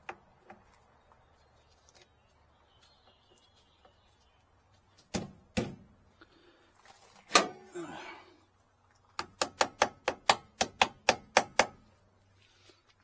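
Knocks and clicks from handling parts and tools inside the generator housing. There are two knocks about five seconds in and a louder one a couple of seconds later, then a quick run of about a dozen sharp clicks, some four or five a second. The engine is not running.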